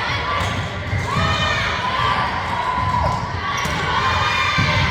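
Volleyball game sounds: dull thuds of the ball and players' feet on a hard court floor, with players and spectators calling out and shouting.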